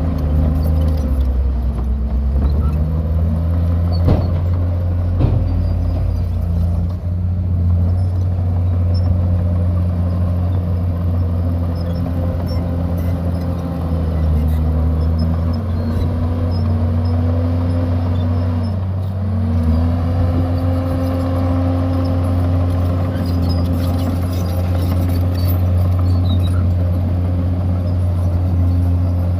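Heavy diesel engine of earthmoving machinery running under load. Its engine speed dips and picks up again a few times, with a couple of short knocks in the first few seconds.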